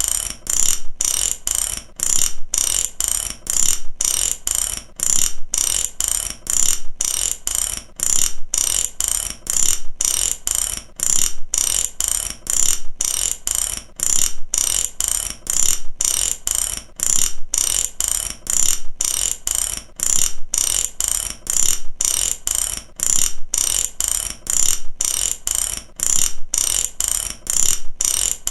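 Mechanic's ratchet wrench clicking: the pawl ticks rapidly over the gear teeth in repeated runs, with brief pauses between strokes, over and over.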